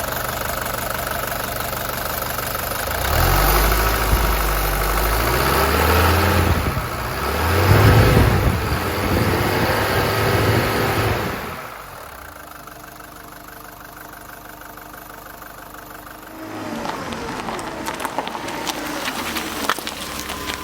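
1983 Mercedes-Benz 240D's four-cylinder diesel engine running, revved up and down a few times with the pitch rising and falling. It drops back to a quieter idle about twelve seconds in, then picks up again near the end.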